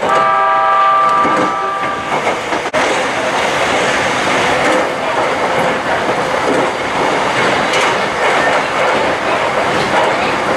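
Train running on the line, heard from inside the passenger car: a steady rumble and clatter of wheels on rail. For about the first two seconds a steady pitched tone with several overtones sounds over it, then stops, and a single sharp click comes a little later.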